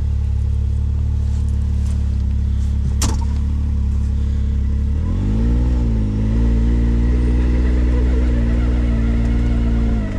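4x4's engine running at a steady low drone, with a single sharp click about three seconds in. About five seconds in it picks up speed: its pitch rises, dips briefly, then holds steady under load.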